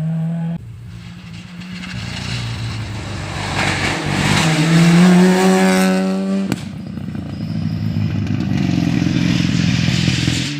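Rally car engine at full throttle, its pitch climbing for a couple of seconds and then cutting off sharply about six and a half seconds in. Engine noise then builds again toward the end.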